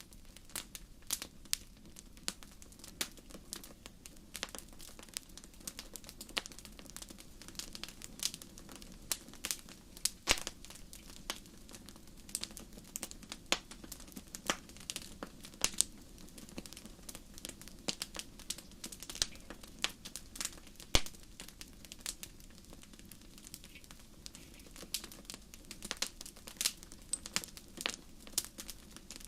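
Wood fire crackling: irregular sharp pops and snaps, a few louder than the rest, over a soft steady low background.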